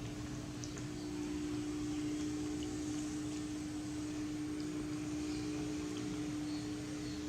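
A steady low hum, like a motor or appliance running, with a low rumble under it and a few faint clicks.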